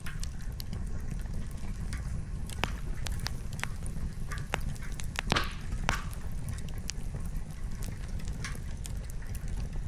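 Wood campfire crackling: irregular sharp pops and snaps of burning firewood, the loudest a little past halfway, over a steady low rumble and a soft hiss of rain.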